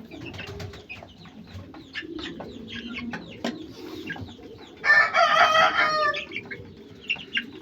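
A rooster crows once, a single call of about a second and a half starting about five seconds in, amid scattered short clucks and chirps from the chickens.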